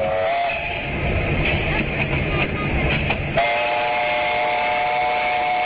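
A train rumbling along, its horn sounding briefly at the start and then, a little past halfway, a long steady blast: a chord of several notes.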